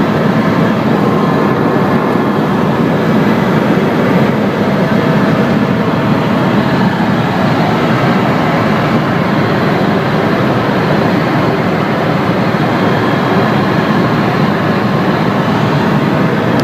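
Steady, loud engine and wind noise of an aircraft in flight, with a few faint steady tones in it and no change in pitch or level.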